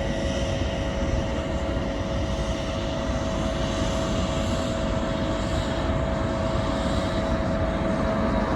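Jet airliner engines running with a steady rumble and a high whine, slowly growing louder.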